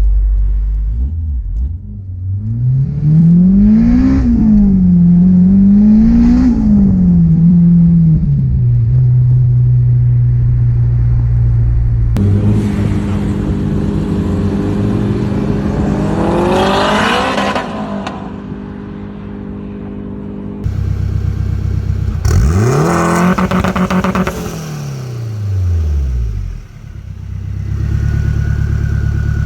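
Turbocharged Honda K20 four-cylinder engine in a Toyota MR2 revving. Two quick rev blips are followed by steady running, then the revs climb hard twice, each time rising and then falling away, with sudden changes between passages.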